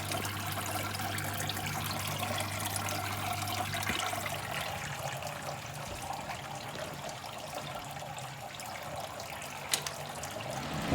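Water trickling and splashing inside a homemade washing-machine air cooler, over a low steady motor hum that changes about four seconds in. One sharp click near the end.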